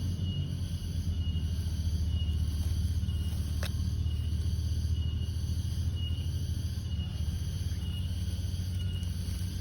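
A cricket chirping: short chirps repeating evenly, about one every 0.7 s, over a steady low rumble. A single sharp click about three and a half seconds in.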